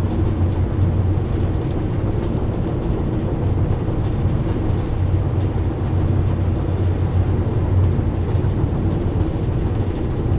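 Steady road noise from inside a vehicle cruising on a highway: a low, even engine and drivetrain hum with tyre noise over it.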